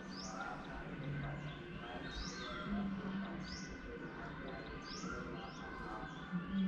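Small birds chirping, a short chirp repeated about once every second, with a low steady hum that comes in a few short stretches.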